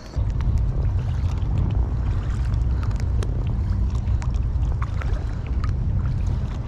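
Wind buffeting the microphone: a steady low rumble that starts suddenly, with light clicks and drips from kayak paddling over it.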